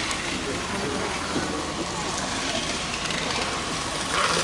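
Indistinct background voices over steady noise, with a louder rush of hiss-like noise starting near the end.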